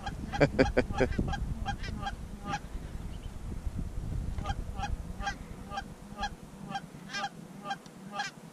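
Geese honking: a long run of short, repeated honks, rapid at first and then about three a second. A low rumble underneath fades out about six seconds in.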